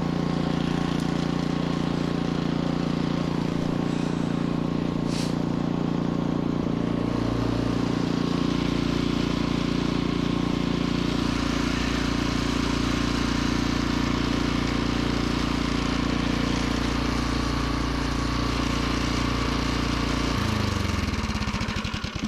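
Troy-Bilt snowblower's single-cylinder gas engine running steadily, then shut off about twenty seconds in, its pitch falling as it winds down to a stop.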